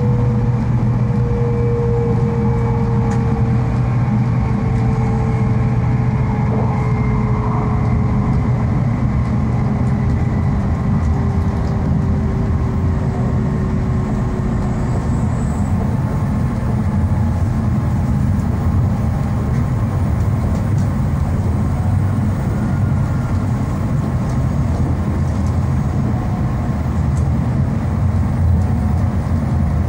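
Running noise of an N700 series Shinkansen heard from inside the passenger car: a steady low rumble, with a faint whine that slowly falls in pitch over the first half.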